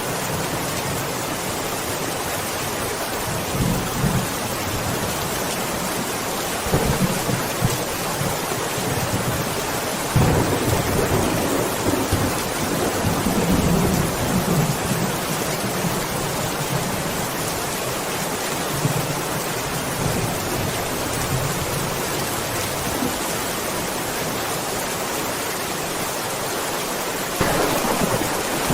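Steady heavy rain hissing, with low rolls of thunder rumbling several times, the longest from about ten to fifteen seconds in and another starting near the end.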